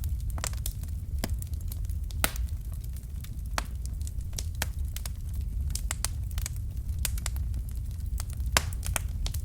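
Wood fire crackling in a fireplace: irregular sharp pops and snaps over a steady low rumble of the flames, with louder pops a couple of seconds in and near the end.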